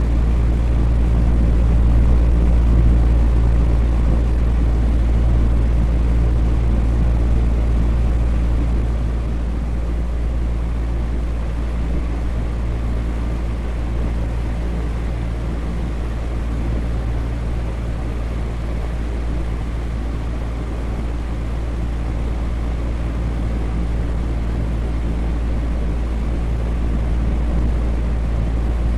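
Electric fan running steadily: a deep whooshing drone with a low hum, swelling slightly in the first few seconds and easing a little after.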